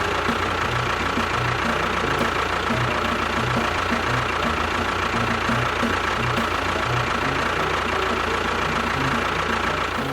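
Engine running steadily at idle, with a regular low knocking beat and a steady whine above it.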